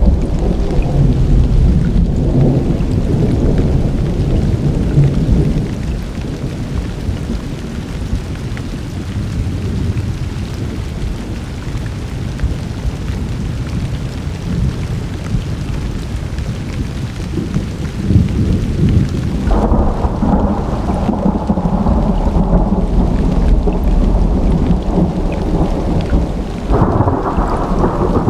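Summer thunderstorm: rolling thunder rumbling over steady rain. The rumble eases off about five seconds in, and a new peal of thunder builds about 18 to 20 seconds in, swelling again near the end.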